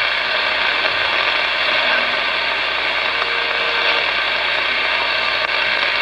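LC995 V2 radio receiving on channel 38: steady static hiss from its speaker, with a faint brief tone about three seconds in.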